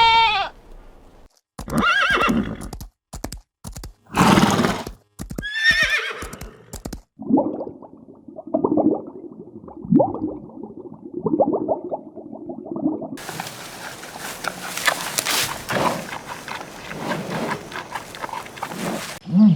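A horse whinnying several times in short cut-together clips, each call a pitched, wavering neigh, followed by lower, rhythmic animal sounds and then a stretch of broad, noisy sound.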